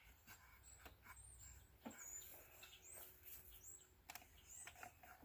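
Near silence, with a small bird chirping now and then in short high notes, and a few faint clicks and taps.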